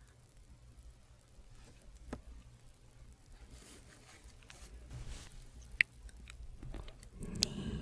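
Hands moving close to a sensitive ASMR microphone: soft rustling and brushing, with a few small sharp clicks.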